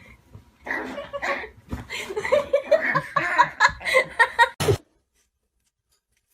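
A person laughing in a rapid string of short bursts, which cuts off abruptly about five seconds in, leaving dead silence.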